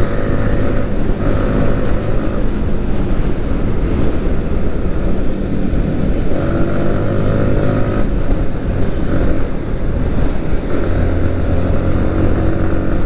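Yamaha MT-15's single-cylinder engine running at a steady cruise, its note holding with small shifts every second or two, under wind rushing over the rider-mounted microphone.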